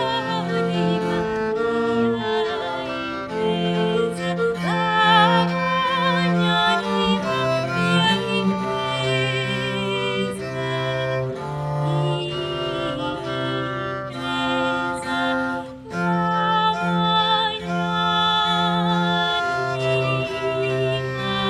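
Live acoustic performance of a late-15th-century Italian frottola by a small early-music trio, a low bass line stepping under higher wavering melodic parts. The music dips briefly about sixteen seconds in.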